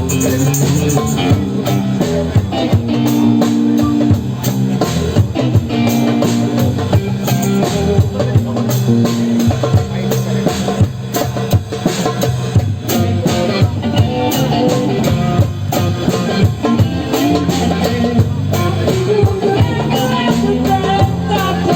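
Live band jam music with a steady drum beat and a bass line, with guitar.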